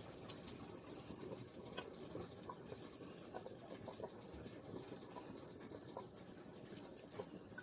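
A pot of chicken foot soup with noodles simmering on a lowered stove, giving faint, irregular small ticks and pops over a low steady hiss.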